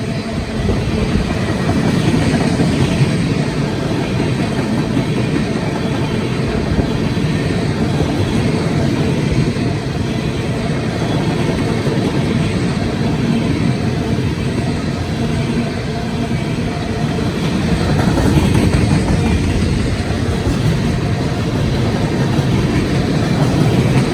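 Freight train cars rolling past fast at close range: a steady, loud rumble and rattle of steel wheels on the rails.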